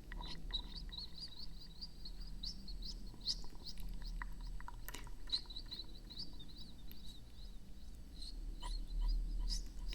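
Close-miked ASMR mouth sounds: quick runs of small high squeaky chirps, several a second, mixed with sharp wet clicks.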